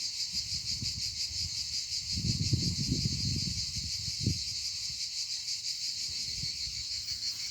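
Steady chorus of insects, crickets by the sound, with a fast, even pulsing throughout. Low rumbles and a knock come from about two to four and a half seconds in.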